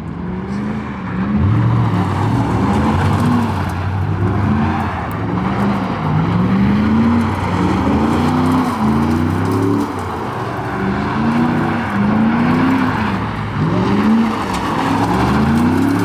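A vehicle's engine revving up and down over and over, about once every second and a half, over a steady hiss, as a truck or car does a burnout.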